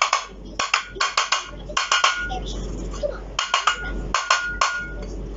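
Light hammer taps on the rusted metal end cover of a vacuum cleaner motor, to loosen the stuck cover. The taps come in quick clusters of a few, some with a short metallic ring.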